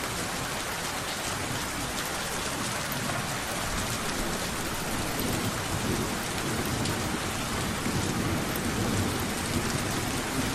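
Steady rain pattering, with low thunder rumbling in under it from about halfway through.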